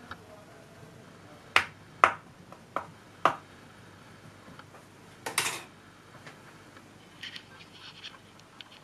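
Sharp clicks and taps as the toothed edge of a plastic dough scraper is jabbed through the top crust of a pie and strikes the metal baking pan: four separate taps, a quick cluster about five seconds in, then a few fainter taps near the end.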